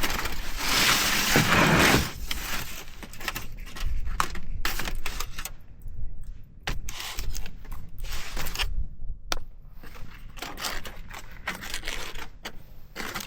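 Fork and food being handled on a cutting board: a run of small clinks, scrapes and rustles, busiest in the first couple of seconds.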